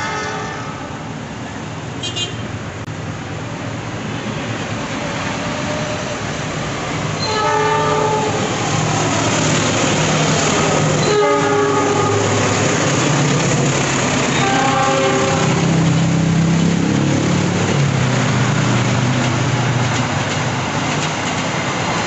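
A diesel locomotive hauling a passenger train passes at speed and sounds its horn in several blasts: right at the start, then about a third of the way in, around halfway and again a little later. The engine and wheel noise swells about eight seconds in and stays loud as the coaches run past.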